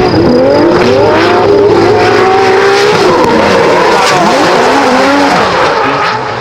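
Turbocharged 2JZ inline-six engine of a Subaru Impreza GC8 drift car, loud and revving up and down repeatedly as it drifts, over a steady hiss of tyre noise.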